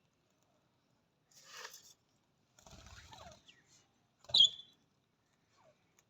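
Budgerigars calling in short, high chirps, the loudest a single sharp chirp about four seconds in, with faint falling chirps around it. Earlier come two brief bursts of scratchy rustling, the second with low thuds.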